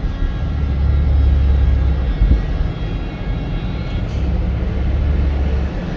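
Loud, steady low rumble of a vehicle moving on a highway: road and engine noise, swelling twice.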